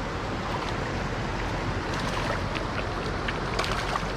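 Steady rush of creek water over a riffle, with a few faint ticks and clicks near the end.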